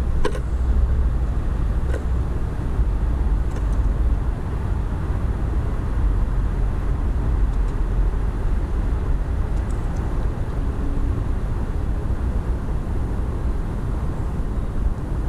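Steady low rumble of outdoor background noise, with a few faint, short, high sounds scattered through it.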